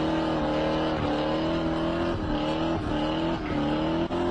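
Car engine revved up and held at high revs for a burnout, with a few brief dips in pitch.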